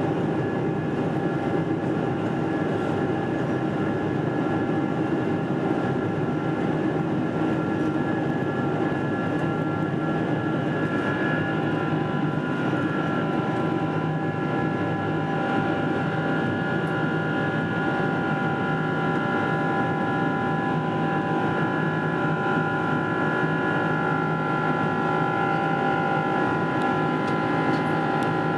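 Boeing 777-300 jet engines running, heard inside the passenger cabin: a steady rush of noise with several steady whining tones that drift a little in pitch.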